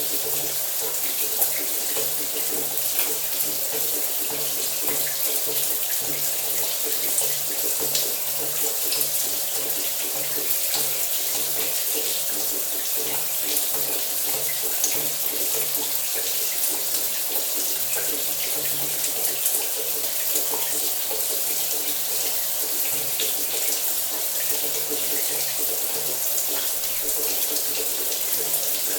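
Shower water running steadily, the spray hissing and splashing with fine patter throughout.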